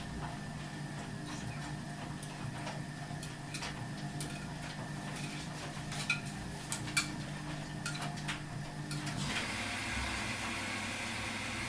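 Ardo washing machine running: a steady mechanical hum with scattered clicks and clinks. About nine seconds in the hum stops and a steady hiss of rushing water takes over.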